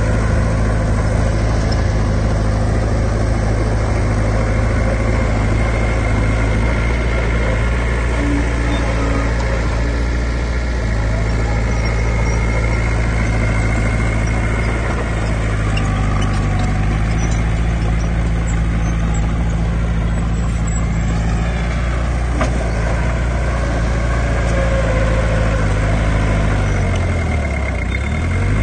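Diesel engine of heavy earthmoving equipment running steadily with a deep drone, its pitch shifting a few times and dropping near the end.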